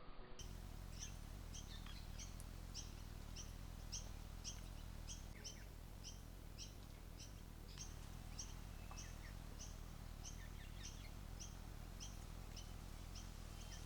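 A bird calling steadily, one short high chirp about twice a second, with fainter chirps from other birds over a low steady background rumble.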